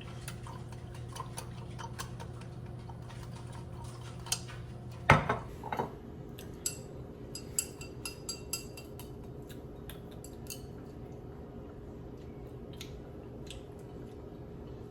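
Spoon and mug clinking while coffee is stirred and handled: scattered light clicks, with one louder knock about five seconds in, over a low steady hum.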